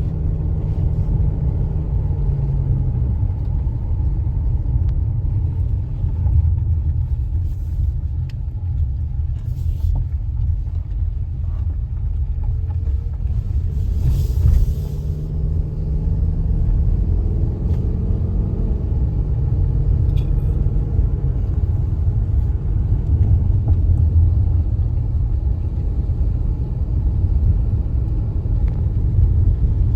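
Steady low rumble of a running vehicle engine, its drone shifting in pitch now and then, with a short hiss about fourteen seconds in.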